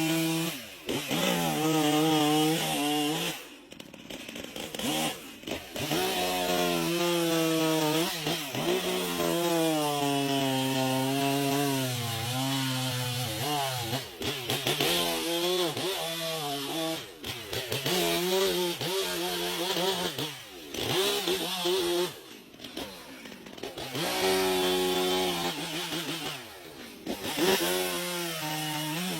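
Chainsaw running at high revs while cutting into wood, its pitch sagging under load and climbing again. A few times it briefly drops off as the throttle is eased.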